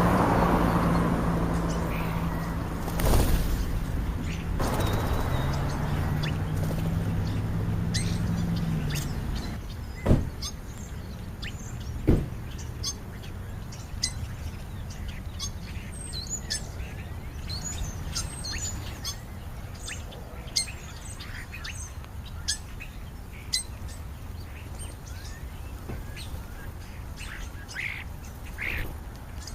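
European starlings chirping, with many short, scattered high calls. A low steady hum runs under the first nine seconds or so, and a few sharp thumps come early on.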